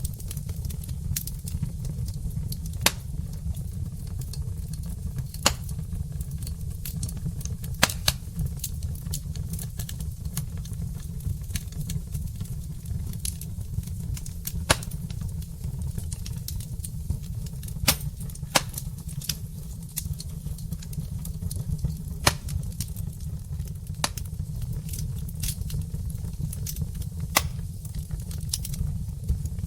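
Wood fire burning in a fireplace hearth: irregular sharp crackles and pops from the burning logs, spaced roughly a second or two apart, over a steady low rumble.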